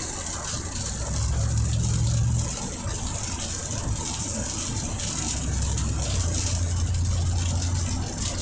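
Car engine and road noise heard inside the cabin while driving in the rain, with a low hum that swells and drops a few times. A steady high hiss of rain and wet road runs under it.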